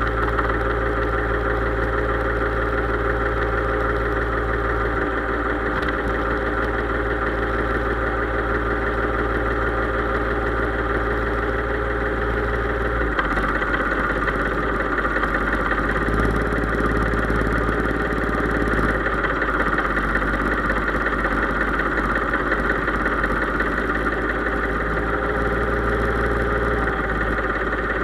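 Case IH 3220 tractor's diesel engine running steadily at an even, low speed, its low note shifting slightly about halfway through.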